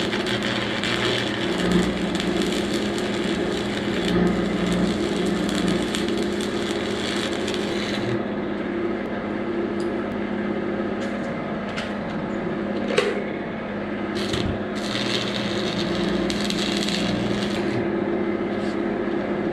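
Steady crackle and hum of welding on a brush hog's steel deck, repairing a broken, rusted-out weld, with a sharp snap about 13 seconds in.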